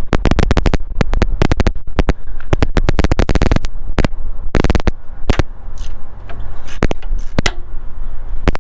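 Rapid clicking of a ratchet wrench for about three and a half seconds, then a few separate clicks and knocks, over a steady low hum.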